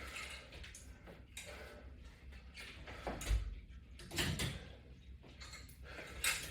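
Quiet, scattered rubbing and creaking of resistance-band exercise equipment in use during curls, with a soft thump about three seconds in and a few brief scrapes or knocks later on.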